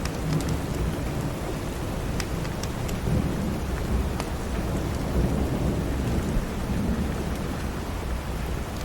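Steady rain with a low rumble that swells through the middle, and a few sharp crackles of a wood fire.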